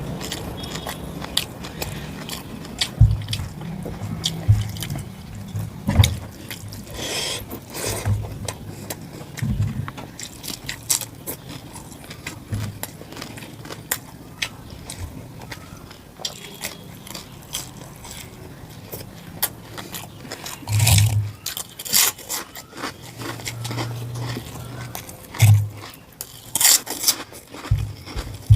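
Close-miked eating of mutton curry with rice: chewing and mouth sounds with many small scattered clicks and occasional soft low thuds.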